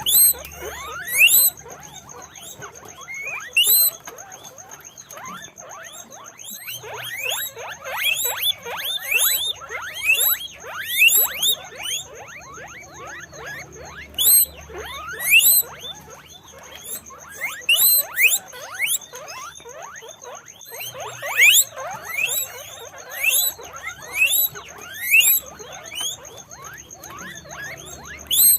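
Guinea pigs wheeking: many short, rising squeals in quick clusters, often overlapping, with a faint steady high whine underneath.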